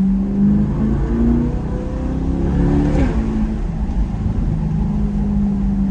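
Car engine through an aftermarket AWE exhaust accelerating from a steady cruise, the revs climbing to a quick upshift about three seconds in, then settling back to a steady drone.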